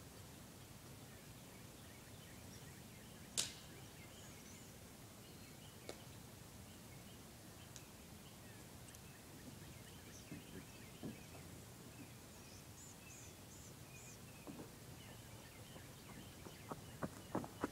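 Quiet outdoor ambience with faint bird chirps, broken by one sharp crack about three and a half seconds in. Footsteps on crunchy ground begin near the end.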